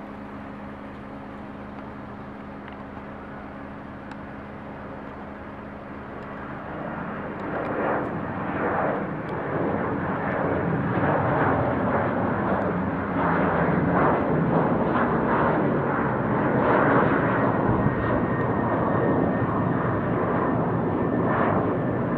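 Jet airliner on departure. The engine noise starts as a steady hum, builds into a loud roar from about seven seconds in, and stays loud to the end.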